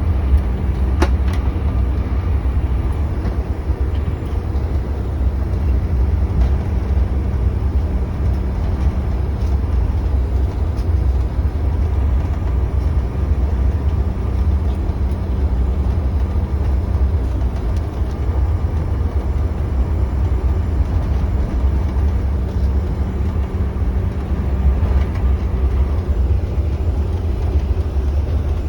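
Cabin noise of a CRJ-900 regional jet taxiing: a steady low rumble with a constant hum from the rear-mounted turbofan engines and airframe. A faint click about a second in.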